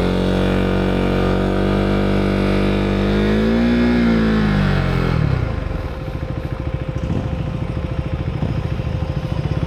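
Husqvarna Svartpilen 401's single-cylinder engine pulling away under throttle. Its pitch holds and rises slightly, then drops about five seconds in as the throttle eases, settling to a lower, steady beat of firing pulses.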